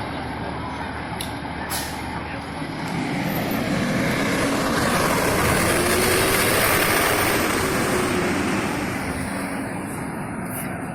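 Fire engine driving past, its diesel engine and road noise building to the loudest point about midway and then fading, with no siren sounding.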